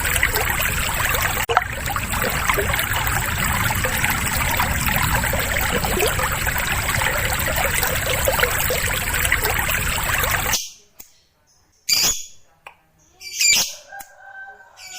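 A dense rushing noise with a thin steady high tone runs for about ten seconds, then cuts off abruptly. Short, sharp lovebird squawks and chirps follow, with gaps between them.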